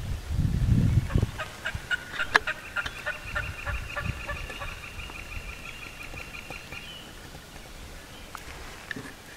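Turkey calling: a fast, evenly spaced run of notes that starts about a second and a half in and goes on for about five seconds. Before it, in the first second, there is a low rumble.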